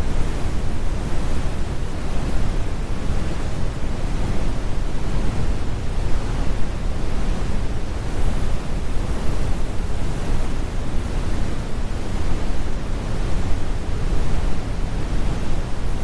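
Synthetic brown noise: a steady, deep rumbling hiss with most of its energy in the bass and the highs rolled off, unchanging throughout.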